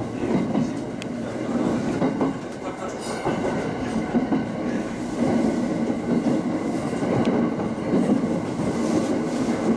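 Local train running along the track, heard from inside the car: a steady rumble of the wheels on the rails, with a few faint clicks.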